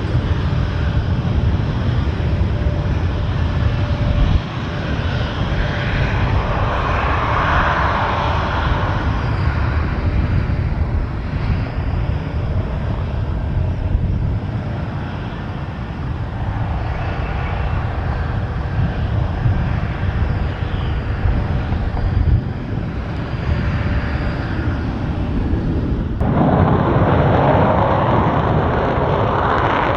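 Military fast-jet engines running, a loud continuous rumble with hiss above it, swelling about seven seconds in. Near the end it changes abruptly and grows louder, as at a cut in the recording.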